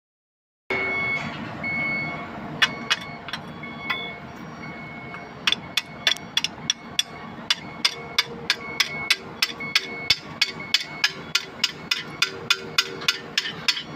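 Hammer striking metal in a quick, even rhythm of about three to four blows a second, over a steady background of workshop noise.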